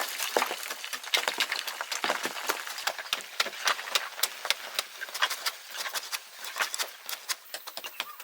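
Rapid, irregular sharp knocks and clicks, several a second, from primitive hand-tool work.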